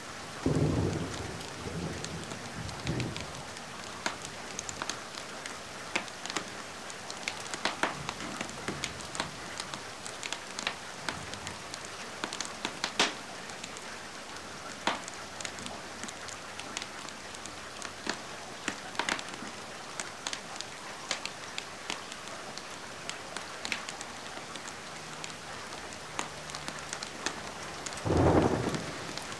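Steady rain with scattered sharp crackles from a wood fire. A short, low rumble of thunder comes just after the start and again near the end.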